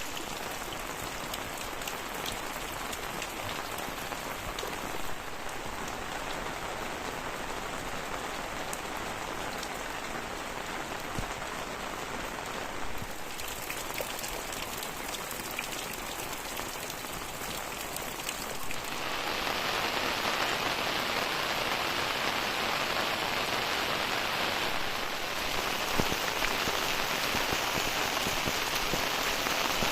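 Heavy rain falling steadily, a dense hiss that grows louder and brighter about two-thirds of the way in.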